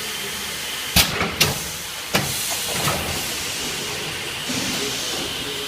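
Industrial steam ironing equipment hissing steadily as steam is released, with sharp knocks: two about a second in, another at about two seconds and a fainter one soon after.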